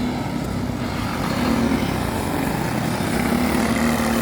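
Small go-kart engines running in a race, a steady engine drone.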